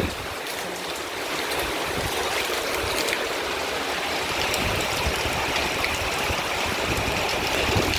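Heavy rain pouring in a windstorm: a steady rush of falling and running water, with scattered small ticks of drops striking.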